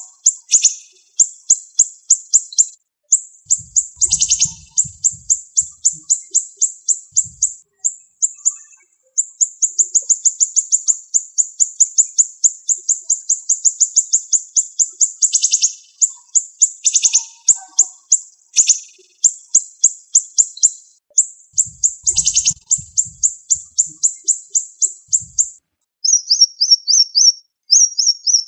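Siri-siri songbird singing in rapid, tightly packed trains of sharp, high-pitched notes, the fast 'tembakan' bursts prized in Indonesian songbird training recordings, almost without pause. Near the end it switches to a shorter, lower, wavering trill.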